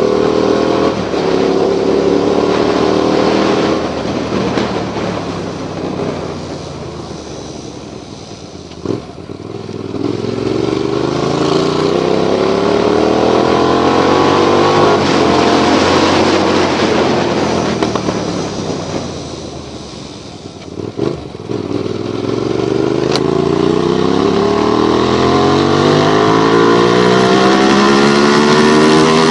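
Motorcycle engine pulling away and accelerating up through the gears, its pitch climbing in steps. It eases off twice to a lower note and picks up again, over a steady hiss of wind and road noise.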